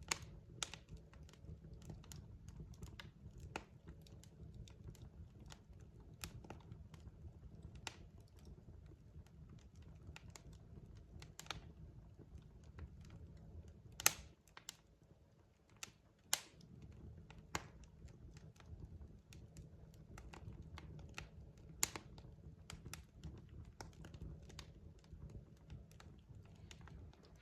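Logs burning in a fireplace, crackling with irregular sharp pops and snaps over a low steady rumble. The rumble drops away for a couple of seconds about halfway through, between two of the loudest pops.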